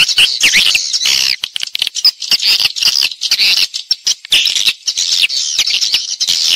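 A dense flock chorus of edible-nest swiftlets twittering: many overlapping quick, high chirps and trills with sharp clicks. It is the kind of swiftlet call recording played to lure the birds into a swiftlet house to roost and nest.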